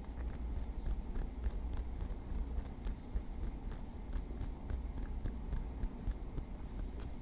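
Small wooden stick tapping lightly in a quick, uneven run of crisp clicks, several a second, over a low steady hum.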